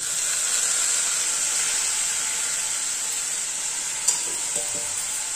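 Sizzling in a hot aluminium kadhai as moist steamed sprouted green moong are tipped into the oil and masala. It starts suddenly with a loud hiss that eases a little, and there is a single clink about four seconds in.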